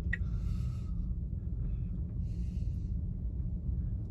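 Steady low road and tyre rumble inside the cabin of a Tesla Model Y electric car cruising slowly. Two short breaths near the microphone come through, one at the start and one about two seconds in.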